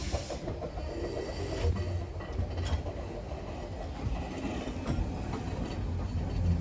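A 15-inch-gauge miniature railway train running along the track, heard from aboard a carriage: a steady rumble of the wheels on the rails with scattered clicks over the rail joints.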